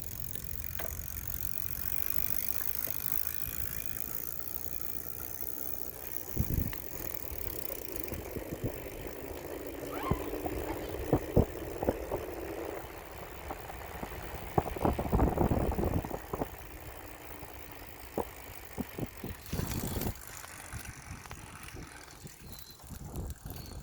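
Bicycles rolling along a street with a steady rushing of tyres and air, and clusters of short rattles and knocks from about ten to sixteen seconds in and again around twenty seconds.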